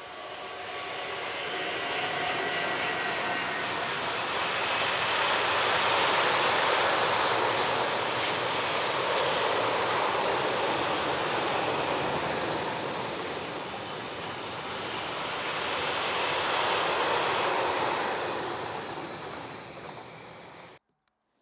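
SNCF train passing close by: a loud rushing of wheels on rail that swells, dips briefly, swells again, and then cuts off suddenly near the end.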